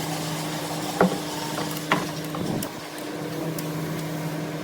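Sharp metallic clicks from a wrench tightening the transmission's valve body bolts, the loudest about a second in and near two seconds, with a few fainter ones later. A steady hum runs underneath.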